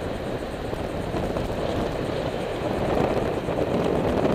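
Wind buffeting the microphone: a steady, fluttering rumble that grows a little louder toward the end.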